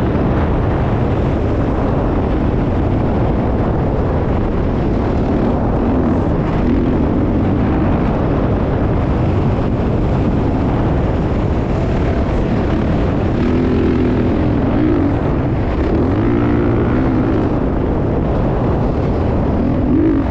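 Motocross dirt bike engines revving, their pitch rising and falling again and again over a steady, loud rumble.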